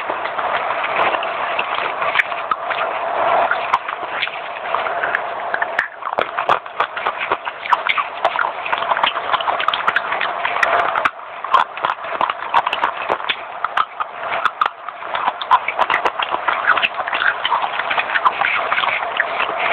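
Fast, close-up crunching and chewing of baked clay (mini clay pots), a dense run of crisp cracks, with short breaks about six and eleven seconds in.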